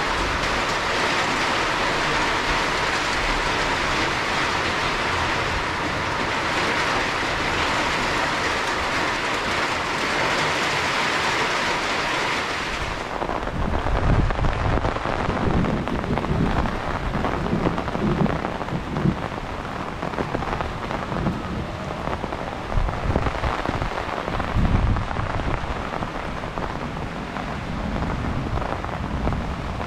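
Heavy monsoon rain pouring down as a dense, steady hiss. About thirteen seconds in it changes to a softer rain with irregular low rumbling gusts of wind buffeting the microphone.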